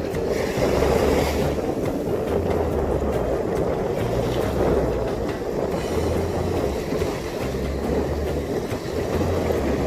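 Steady rumble of a boat underway, with wind buffeting the microphone.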